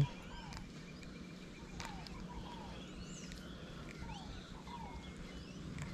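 Faint chirps and short gliding calls of birds over a low outdoor background, with a few soft clicks.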